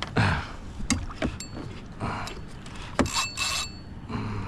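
Fishing gear handled while landing a fish: scattered sharp clicks and knocks, with a short mechanical whirr about three seconds in.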